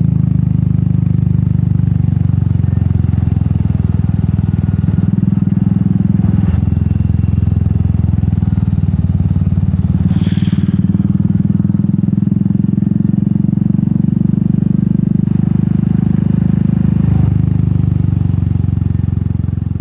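Royal Enfield Meteor 350's single-cylinder engine running through an aftermarket sport exhaust while riding, a steady low exhaust note that shifts in pitch twice, about six seconds in and near the end.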